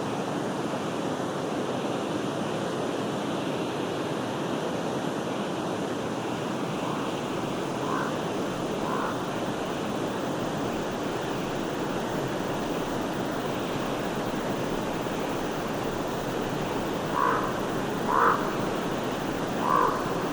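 Stream water running with a steady rush. A bird gives short single calls, three faint ones midway and a louder run of three or four near the end.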